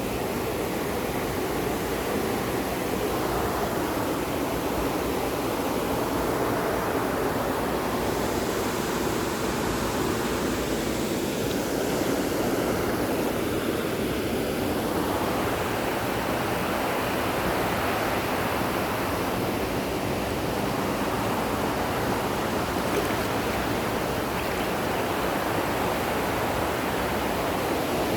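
Steady rushing water, an even noise with no breaks or surges.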